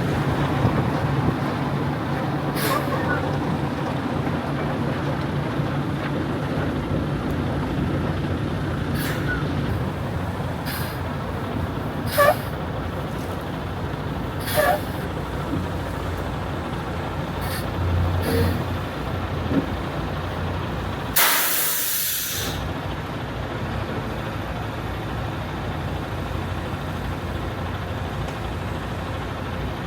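Ready-mix concrete mixer truck's diesel engine running steadily, with scattered short squeaks and clicks. About two-thirds of the way through comes one loud air-brake hiss lasting about a second.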